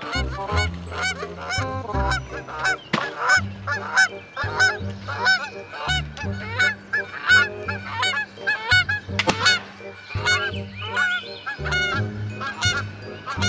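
A flock of geese honking, many calls in quick succession, over background music with low held notes.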